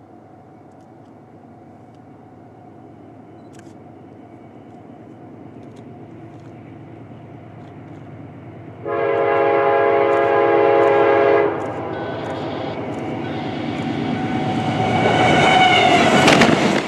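Approaching train: the locomotive's rumble grows steadily louder, and its air horn sounds one loud blast of about two and a half seconds near the middle. The rush of the train builds to its loudest near the end and cuts off suddenly.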